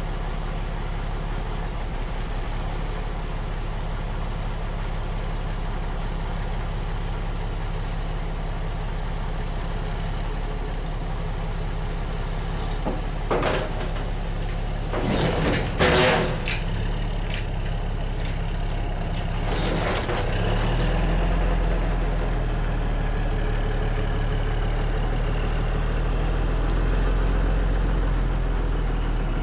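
Small dump truck's diesel engine running steadily, with a few sharp hisses of air from the air brakes a little under halfway through and once more shortly after. After the last hiss the engine runs louder and pulls harder.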